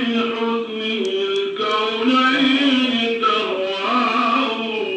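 Solo male voice chanting an Iraqi prophetic praise song (manqaba), unaccompanied, in a slow melismatic style with long held notes that bend and waver in pitch.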